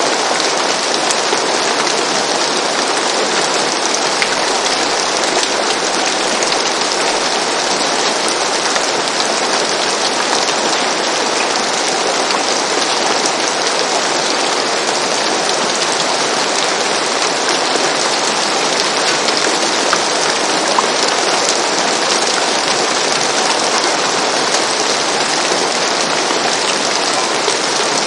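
Steady rain falling on a roof, an even hiss with faint drop ticks and no change in intensity.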